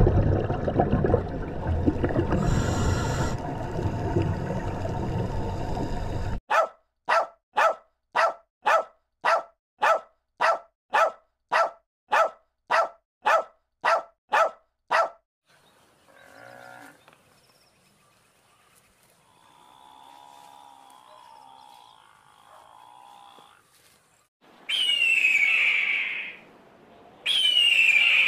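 A loud, steady underwater rush of water noise, then a dog barking in an even run of about sixteen barks, nearly two a second. Near the end a bird of prey gives two loud calls with falling, whistling notes.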